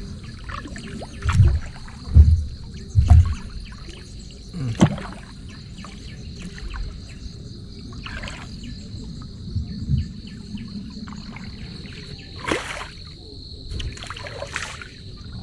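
Steady high-pitched insect chorus. Over it come a few loud low thumps in the first three seconds and several short rustling or splashing rushes later on, as the line and gear are handled.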